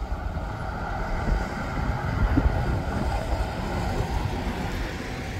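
Strong wind gusting on the microphone, an uneven low rumble over a steady rushing background.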